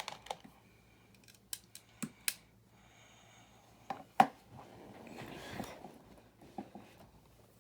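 Plastic building-brick pieces clicking and tapping as they are handled and pressed together: several sharp clicks, the loudest about four seconds in, and a short rustling stretch around five seconds.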